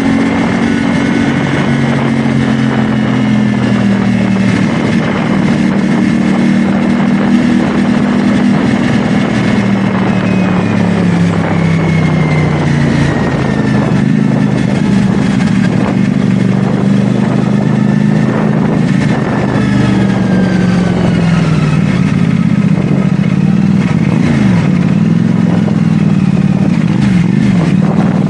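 CFMoto 450SR S motorcycle's parallel-twin engine running on the move, its engine speed slowly rising and falling, with a few quicker changes near the end.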